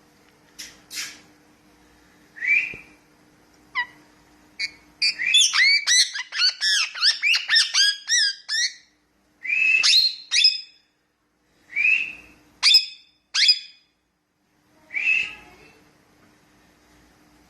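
Indian ringneck parakeet whistling and chirping: a few short calls, then about five seconds in a fast run of rising and falling chirped whistles lasting some four seconds, followed by single sharp calls every second or two.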